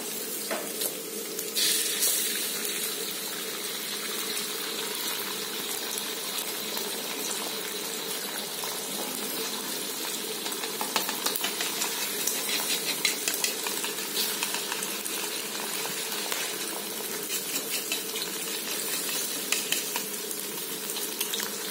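Garlic, shallots and chilies sizzling steadily in oil in a steel wok. An egg goes into the hot oil with a louder burst of sizzle about two seconds in. In the second half a metal spatula scrapes and clicks against the wok as the egg is broken up and stirred.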